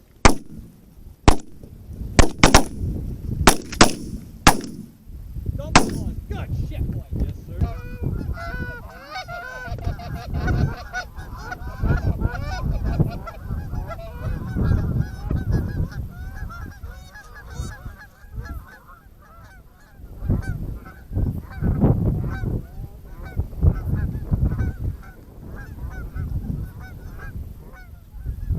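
A quick volley of about eight shotgun shots in the first six seconds, then a flock of geese honking continuously, many overlapping calls, over low wind rumble on the microphone.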